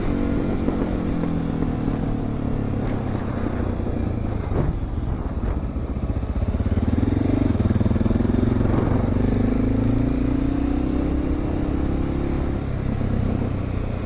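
Honda XR650L's single-cylinder four-stroke engine running on the road. About halfway through the revs rise and hold, then ease off shortly before the end.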